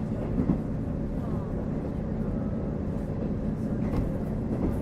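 Onboard running sound of a KiHa 48 diesel railcar: a steady rumble of the diesel engine and wheels on the rails, with a couple of brief knocks, about half a second in and again near the end.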